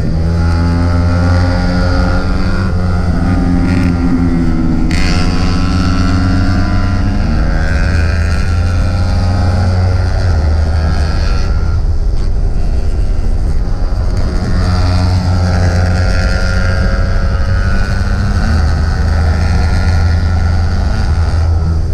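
Single-cylinder 150 cc-class sport bike engine heard from on board, running hard downhill with its pitch rising and falling as the rider works the throttle and gears, including a sudden drop about five seconds in, over a rush of wind and road noise.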